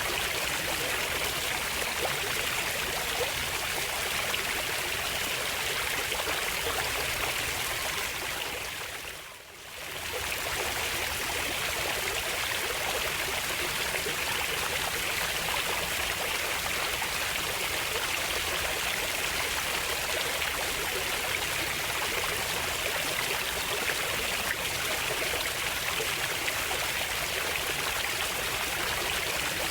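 Running water of a stream, a steady rushing hiss. It fades out briefly and back in about nine seconds in.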